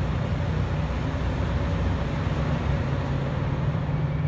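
Engine idling: a steady low rumble.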